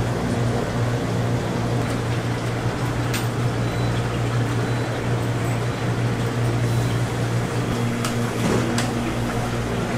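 Steady electric motor hum over a broad hiss, with a few light clicks and knocks, as from a kitchen machine running in the donut shop.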